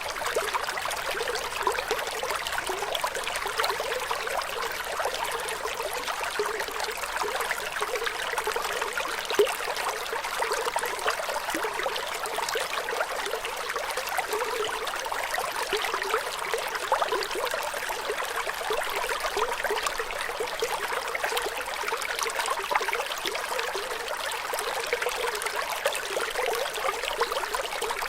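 Running water trickling and babbling steadily, a light, bright splashing with little deep rumble.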